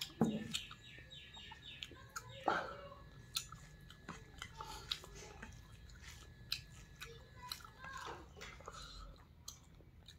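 A person chewing a mouthful of rice and soup, with scattered soft clicks and mouth noises, the sharpest near the start and about two and a half seconds in.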